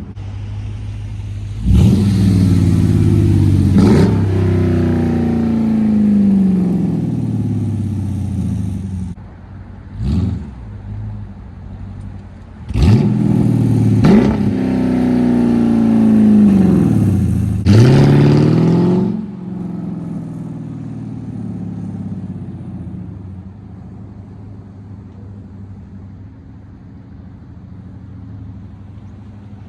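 2017 Dodge Durango R/T's 5.7-litre Hemi V8 revved from idle several times, its exhaust running through an X-pipe with the rear mufflers deleted. Each blip of the throttle jumps the pitch up sharply and lets it slide back down. It settles to a steady idle for the last ten seconds or so.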